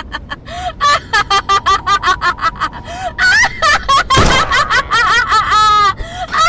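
A voice cackling with laughter: quick, evenly repeated laughing syllables that grow louder about a second in, with a dull thump about four seconds in.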